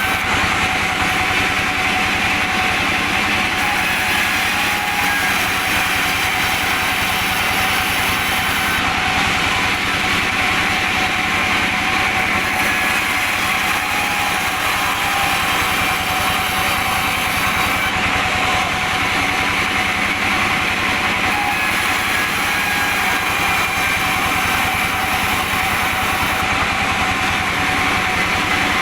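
Sawmill machinery running steadily, with a constant whine that holds the same pitch throughout.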